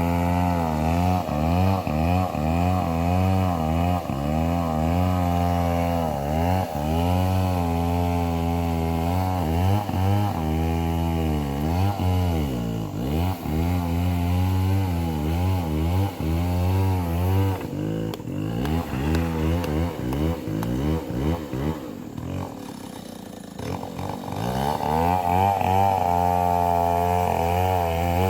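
Two-stroke chainsaw cutting timber, its engine speed rising and falling under load. It drops to a quieter idle about twenty seconds in, then revs up again near the end.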